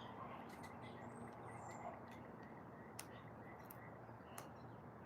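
Quiet outdoor ambience: a low steady background hiss with faint distant bird chirps and a couple of soft clicks.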